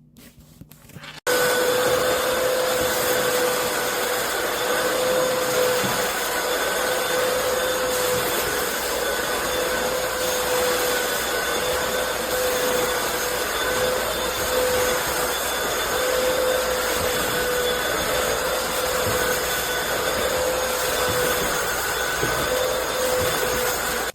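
Hoover FloorMate floor cleaner's vacuum motor switching on about a second in and running steadily with a constant whine, then stopping abruptly at the end.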